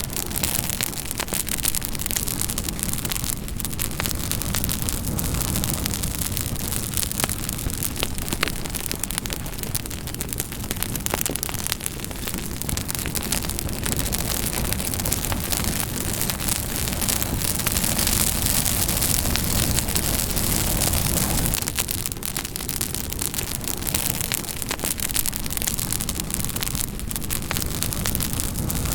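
Campfire burning steadily: a dense rush of flame noise with a low rumble, dotted with many sharp crackles and pops from the burning wood.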